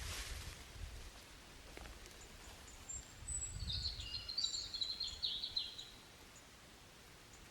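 A songbird singing a short phrase of quick high chirps and trills about halfway through, over faint outdoor background noise with some low rumble.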